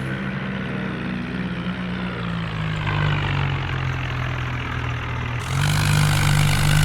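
Diesel tractor engine running hard and steady. Its pitch sags slightly midway, then picks back up, and it gets louder about five and a half seconds in.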